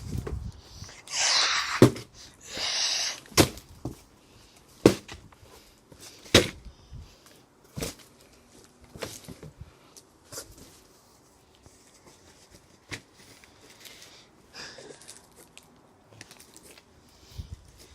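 Hoover pole striking a cardboard box: a series of sharp knocks about every one and a half seconds, getting lighter after about ten seconds, with two brief rushing scrapes near the start.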